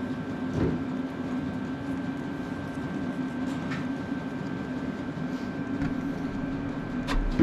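A steady low machine hum with a thin high whine, and a few knocks and clinks of metal parts being handled during disassembly of a tractor starter motor, the loudest knock near the end.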